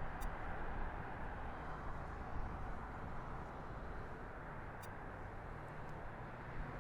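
Steady outdoor background noise, the low hum of distant city traffic, with no aircraft passing. Two faint ticks sound, one near the start and one about five seconds in.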